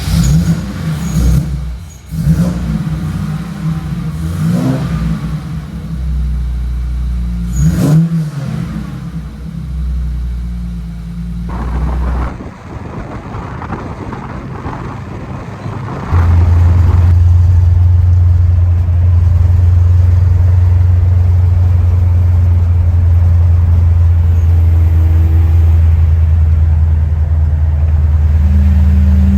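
Classic car engine running just after start-up and blipped twice, rising and falling. The engine then runs as a loud steady low drone on the road, rising in pitch near the end as it accelerates.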